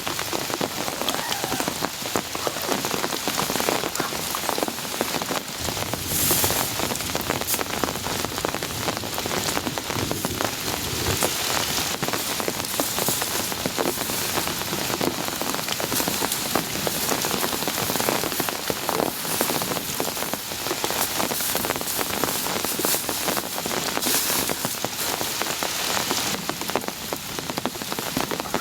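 Heavy rain falling steadily, a dense, even patter of drops hitting a surface.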